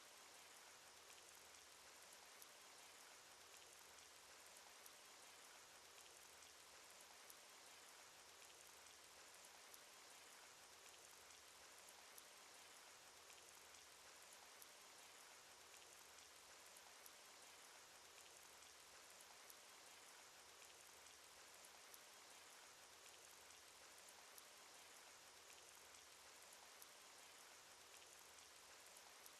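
Cartoon rain sound effect: a faint, steady hiss of rainfall with scattered drop ticks, and a slightly louder drop about every two and a half seconds.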